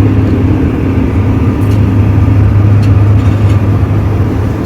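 Steady loud drone of a private jet heard inside the cabin, a low hum over a constant rushing noise.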